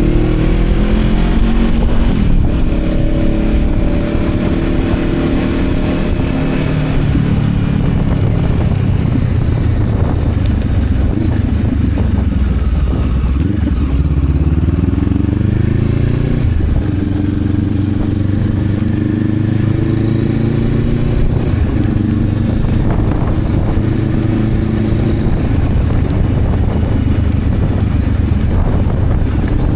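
Honda CB500X's parallel-twin engine running under way, its pitch rising and stepping between gears, dropping off about twelve seconds in, then pulling up again and stepping down suddenly around sixteen seconds.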